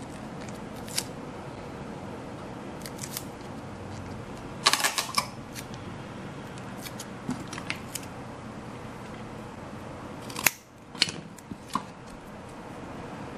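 Scissors snipping and small sharp clicks from handling craft materials while model parts are cut. There is a quick cluster of snips about five seconds in, and a few more near the end, the loudest a single sharp click about ten seconds in.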